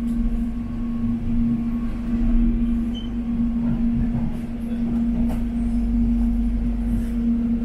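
Steady electrical hum with a low rumble underneath, heard inside a Soekarno-Hatta airport rail link train carriage.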